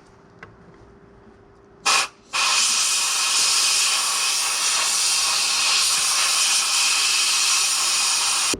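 Compressed-air blowgun: a short blast about two seconds in, a brief pause, then a steady loud hiss of about six seconds. It is blowing water out of a distributor cap to dry it.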